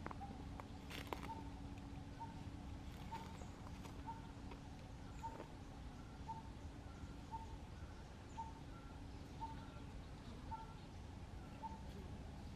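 A bird calling one short note of the same pitch over and over, about two notes a second, with a single click about a second in.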